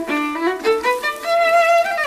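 Soundtrack music with a violin playing a quick run of notes, then holding one wavering note about halfway through.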